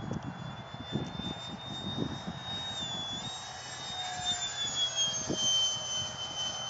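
High whine of a ParkZone Habu foam RC jet's electric ducted fan in flight, dipping in pitch about three seconds in and falling in pitch near the end. Wind buffets the microphone throughout.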